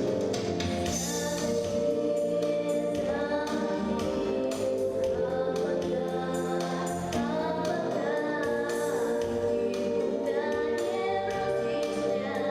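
Children's vocal group singing a song over instrumental accompaniment, the voices coming in about three seconds in.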